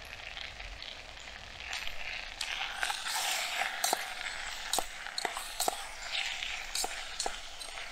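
Chicken, sweet peppers and onions sizzling in oil in a small camping pot on a stove, while a long metal spoon stirs them, scraping and clinking against the pot. The sizzle swells about two seconds in, with a dozen or so sharp clinks after that.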